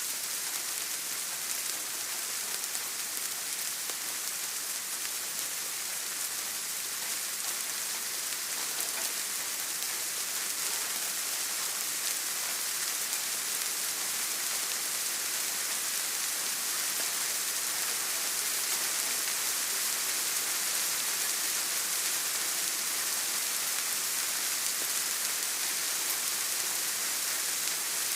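Steady rain, an even, unbroken patter of drops.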